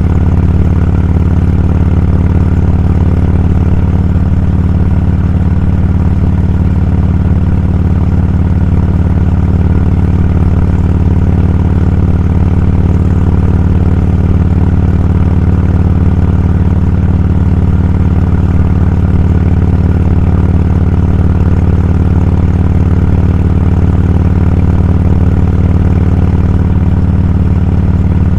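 Motorcycle running at a steady cruising speed: an even engine drone under a heavy low rush of riding noise, unchanging throughout.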